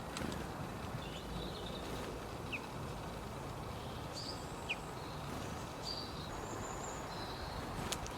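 Small birds giving short, high chirps and brief whistled notes, scattered and a few seconds apart, over a steady background rumble of outdoor noise.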